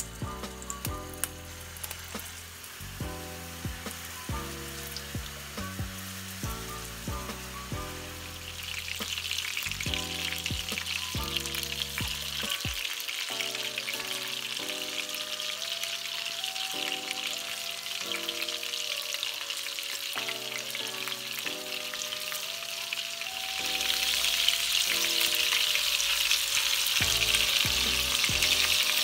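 Balls of lamb mince shallow-frying in oil in a frying pan, sizzling over background music; the sizzle comes in about a third of the way through and grows louder near the end.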